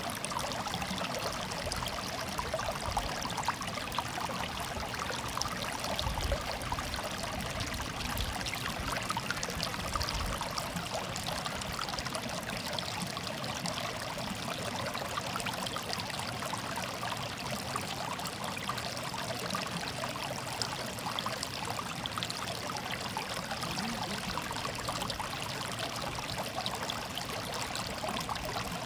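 Water murmuring and trickling steadily over stones, a continuous babbling stream.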